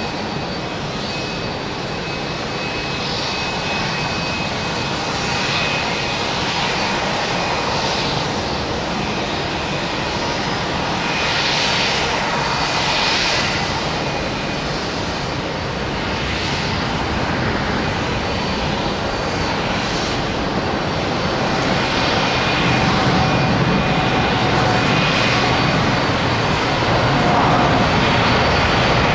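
Boeing 787 Dreamliner's jet engines at takeoff power: a steady, dense jet noise with faint whining tones in it, growing slowly louder toward the end.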